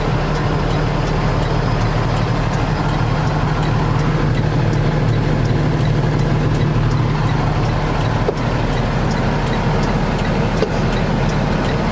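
The Cummins ISL diesel engine of a 2016 Freightliner 114SD water truck idling steadily, with a faint regular ticking.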